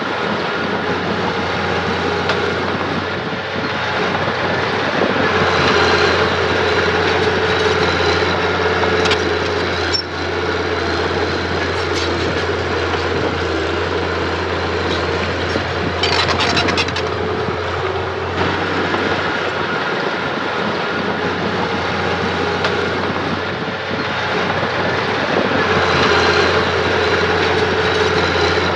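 Diesel engine of a Mitsubishi mini bulldozer running steadily under load. A burst of metallic clatter comes about 16 seconds in.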